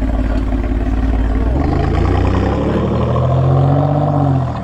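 Alfa Romeo Giulia Quadrifoglio's 2.9-litre twin-turbo V6 through a Ragazzon exhaust. It runs at a low, steady note, then from about a second and a half in it accelerates with its pitch climbing, and falls away just before the end.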